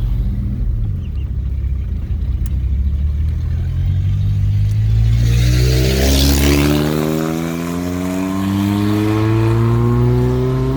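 Car engine running, then accelerating hard with its pitch climbing steadily through the second half, with a brief rush of noise midway.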